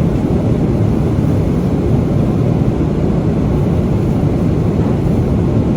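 Steady cabin noise of a Boeing 777-300ER in flight: an even rush of engines and airflow, strongest in the low range and unchanging throughout.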